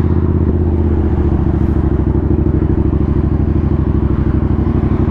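Motorcycle engine running steadily while riding, with a fast even pulse; its low note shifts slightly about a second in.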